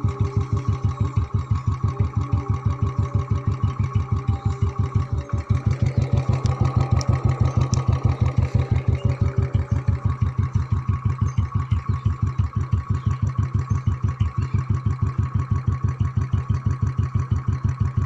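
Motorcycle engine idling steadily, with an even pulsing exhaust beat of about six pulses a second.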